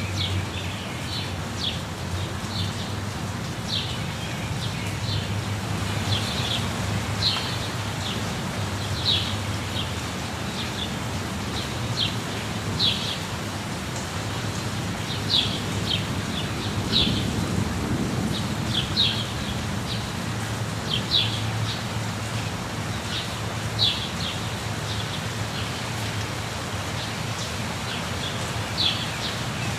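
Waterfall rushing with a steady low rumble, while birds chirp over it in short high calls, about one every second or two.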